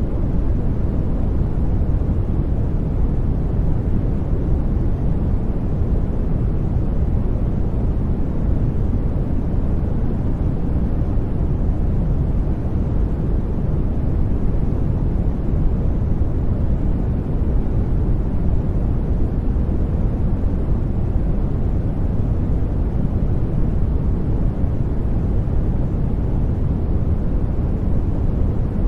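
Steady artificial sleep noise, billed as white noise, with its energy weighted low: a deep, even rushing rumble with little hiss that never changes.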